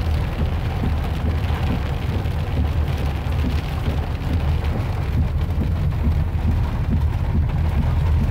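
Heavy rain and strong wind heard from inside a car cabin: a steady hiss of rain over a continuous low rumble.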